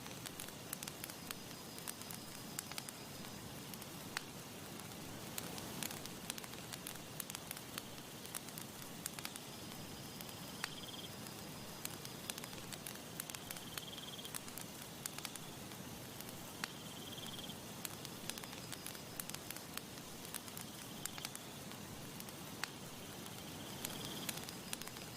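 Campfire crackling and popping over a soft steady hiss, with a short high-pitched trill recurring every few seconds.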